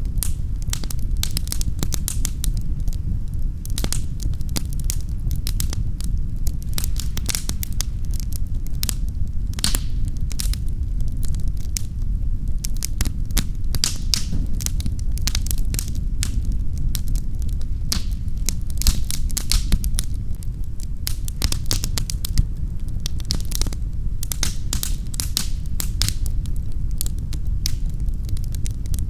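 Wood fire in a fireplace crackling and popping: dense, irregular sharp crackles over a steady low rumble.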